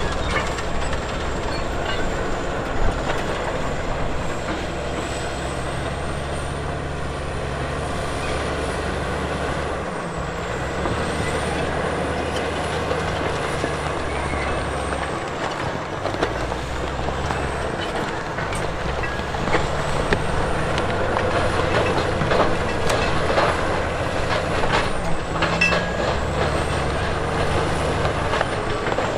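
Heavy diesel earthmoving machinery working, its engine note stepping up and down as the load changes. Scattered knocks and metal clatter come through, more of them in the second half, with a faint high whine that rises and falls.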